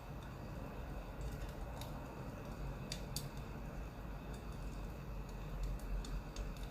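Crackling wood fire: irregular small pops and snaps, a cluster of them about three seconds in, over a steady low rumble.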